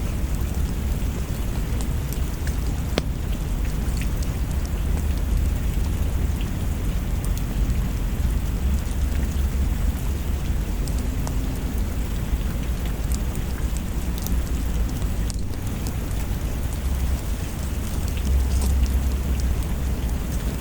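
Steady rain with a deep rolling rumble of thunder underneath, swelling near the end, and scattered faint clicks.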